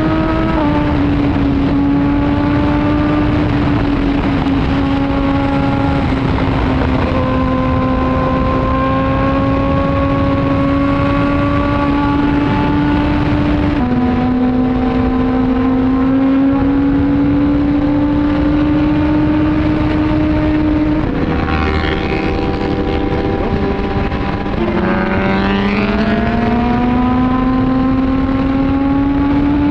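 Suzuki GSX-R1000R inline-four engine with an Arrow exhaust, running at high revs at highway speed, with steady wind rush on the helmet microphone. Its note holds and creeps upward, drops suddenly about 14 seconds in, then climbs again. Near 25 seconds it falls lower and rises steadily as the bike accelerates.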